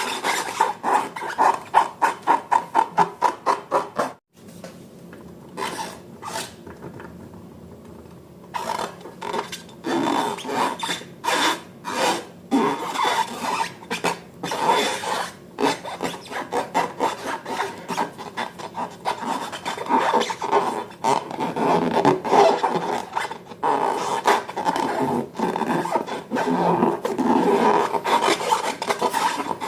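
Slime being mixed and squished by hand, in quick rubbing strokes. The strokes are rapid and even for the first few seconds, stop abruptly, and after a quieter stretch return as a busy, irregular squishing.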